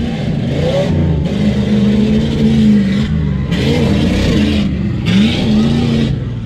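Tuff truck engine revving hard, its pitch rising and falling again and again as the throttle is worked.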